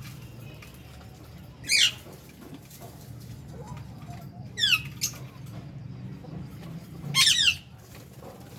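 Lovebirds calling: three loud, shrill squeaky calls, each a quick run of falling notes, about three seconds apart, over a low steady hum.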